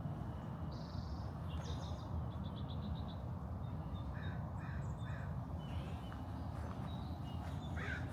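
Wild birds calling over a steady low rumble: a quick trill, then three short evenly spaced calls, and more calls near the end.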